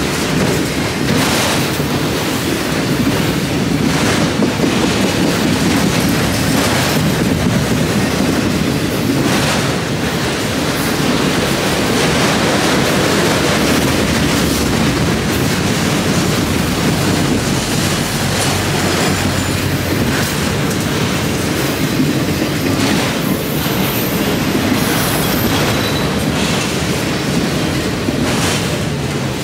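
Freight train of autorack cars rolling past close by: a steady, loud rumble and clatter of steel wheels on the rails.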